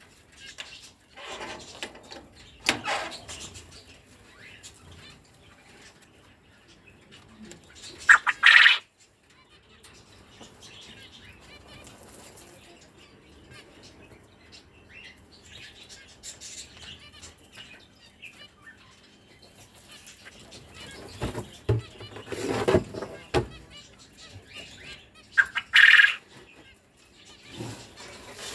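Quail and finches calling: scattered chirps and short calls over a quiet background, with two louder, sharper calls, one about eight seconds in and one near the end.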